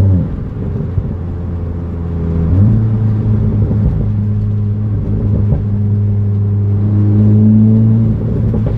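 Volkswagen Golf R's turbocharged four-cylinder engine heard from inside the cabin while driving. The engine note drops sharply as the throttle is lifted, with one sharp click about a second in. It pulls steadily again, then drops off once more near the end. It gives little pop and crackle on the overrun, which the owner expects an updated APR tune to fix.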